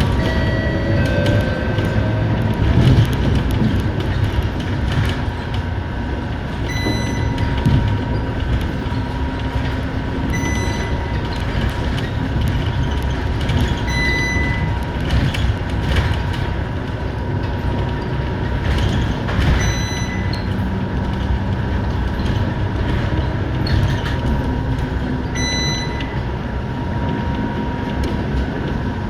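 Interior of a Scania K230UB city bus on the move: steady diesel engine and road rumble with a constant whine, and a short high beep sounding every few seconds.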